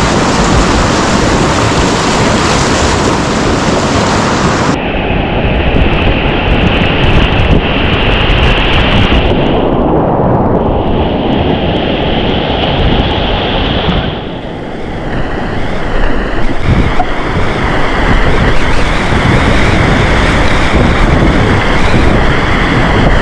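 Class III whitewater rapids rushing loudly around a kayak, with water and wind buffeting the microphone. The sound changes abruptly about five seconds in and twice more, as the footage jumps between stretches of rapids.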